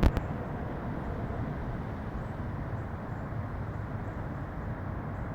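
A single sharp thump at the very start, then a steady low outdoor rumble of distant vehicles.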